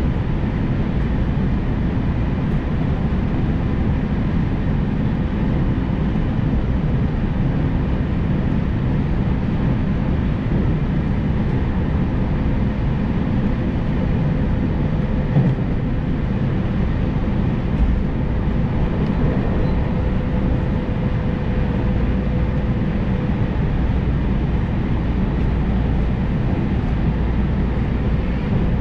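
JR Tokaido Line electric train running at speed, heard from inside the passenger car: a steady rumble of wheels on the rails with a faint held hum. There are a couple of light knocks about halfway through.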